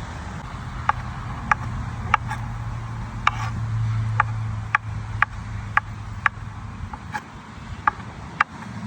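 Sharp knocks in a steady rhythm, about two a second, over a low hum that swells near the middle and fades out about seven seconds in.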